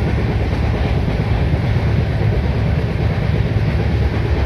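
Passenger train running, heard from inside a sleeper coach: a steady, loud rumble of wheels and carriage.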